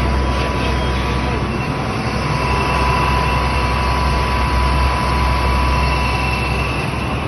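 Heavy vehicle engine running steadily, with a strong low hum and a thin, steady high whine over it.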